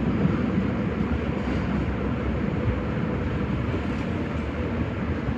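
Nagoya Municipal Subway 5050 series train running: a steady low rumble of wheels on rail and running gear, easing off slightly toward the end.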